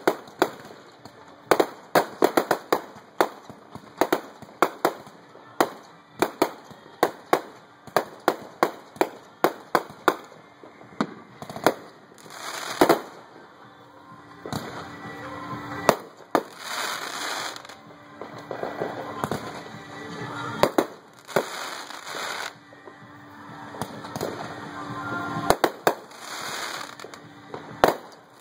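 Aerial fireworks going off: a rapid run of sharp bangs for the first ten seconds or so, then fewer bangs with several spells of crackling bursts.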